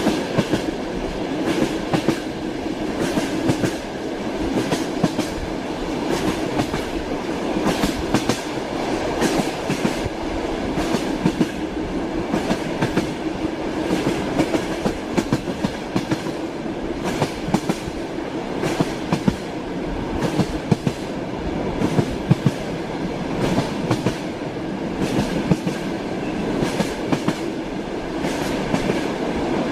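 Moving railway carriage: a steady rumble with frequent, irregular sharp knocks as the wheels run over rail joints, the clickety-clack of a train at speed.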